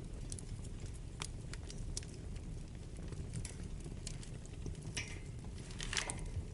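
Wood fire burning in a fireplace: a steady low rumble under irregular sharp crackles and pops, with a louder flurry of pops about five and again about six seconds in.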